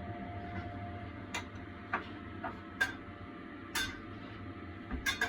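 Chicken stewing in sauce in a wok: a steady low hum with about six irregular sharp clicks, two of them close together near the end.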